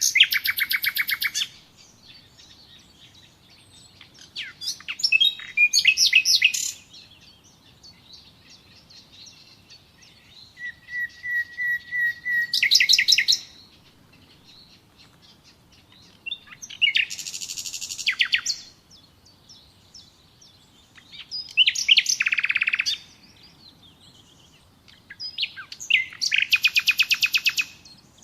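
A songbird singing the same short song over and over, about every four to five seconds: each song is a run of high notes that speeds into a fast trill, lasting one and a half to two seconds.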